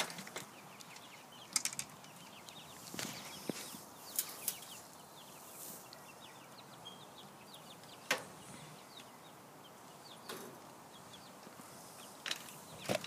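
Chickens moving about and flapping inside a chicken tractor, with a few sharp knocks and clicks scattered through and faint high chirping.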